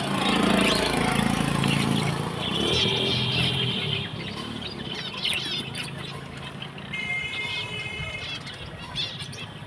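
Small pet cage birds chirping, with short trills and a held whistle-like call near the end; a low hum under the first two seconds is the loudest part.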